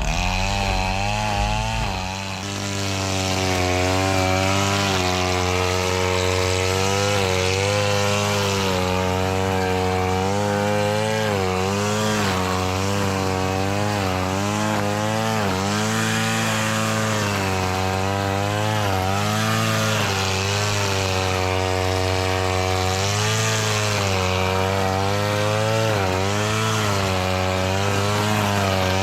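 Small petrol engine of a grass-cutting machine running continuously, its speed rising and falling every second or two as it works through the grass.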